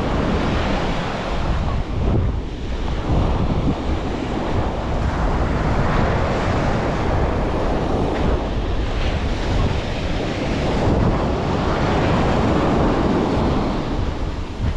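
Surf washing onto a beach, swelling and easing as the waves come in, with wind buffeting the microphone in a steady low rumble.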